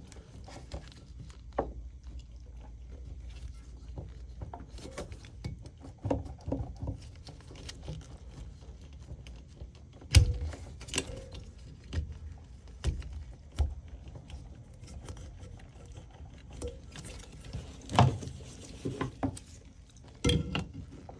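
Handling noises of a compressor's start relay and overload being wiggled and pulled off its terminal pins: scattered clicks, knocks and rattles of plastic and wire, with sharper knocks about ten seconds in and near the end.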